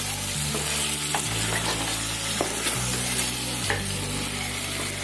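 Chicken and vegetable stir-fry sizzling in a pan, freshly coated in soy, oyster, tomato and chili sauces. A spatula stirs it, scraping and tapping against the pan several times.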